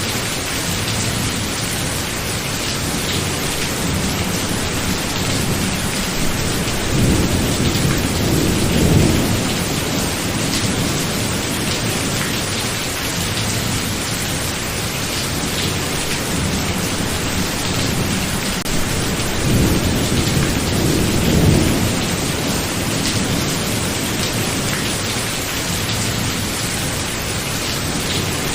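Steady heavy rain with thunder rumbling low twice, once about a quarter of the way in and again about two-thirds of the way through.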